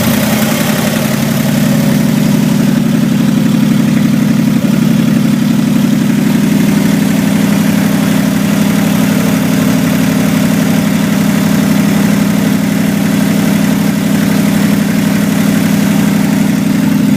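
A 1965 Chevrolet Corvair's 95-horsepower air-cooled flat-six idling steadily with no exhaust system fitted. It is running untuned, on old spark plugs and unrebuilt carburettors.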